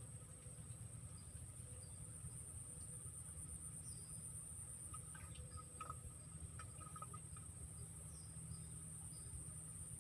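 Steady high-pitched insect chorus trilling without a break, with short faint chirps scattered through it and a few soft ticks in the middle.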